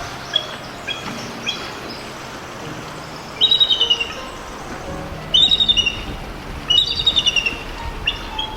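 Bird chirping: scattered single chirps and three quick trills of rapid repeated high notes, each under a second long.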